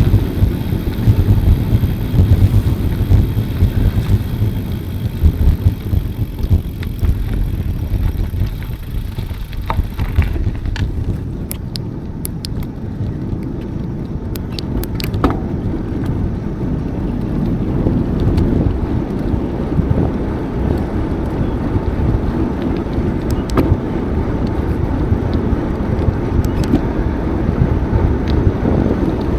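Riding a bicycle: a loud, steady rumble of wind on the microphone and tyre noise, with scattered sharp clicks and rattles from about ten seconds in.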